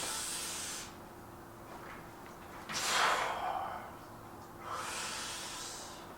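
A man breathing hard while lifting weights: three forceful breaths through the mouth about two seconds apart, the middle one the loudest.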